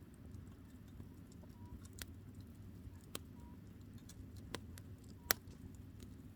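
Firewood burning in a camping fire pit: a low steady rush of flame with a few sharp pops of crackling wood, the loudest about five seconds in.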